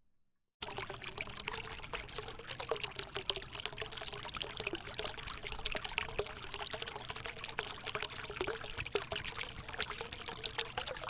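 Water pouring in a steady stream, starting suddenly about half a second in, with a constant ringing tone under the splashing.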